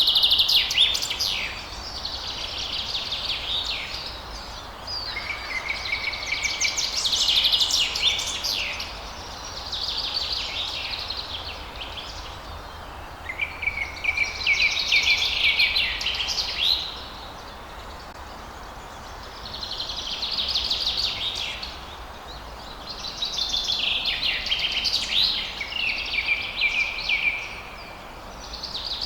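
Songbirds singing, phrase after phrase of rapid high twittering notes, each lasting two or three seconds with short pauses between, over a steady background hiss and low rumble.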